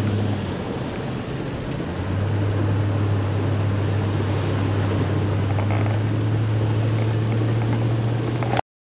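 Car driving in heavy rain: a steady low engine and road drone with a hiss of rain over it, growing a little louder about two seconds in and cutting off abruptly near the end.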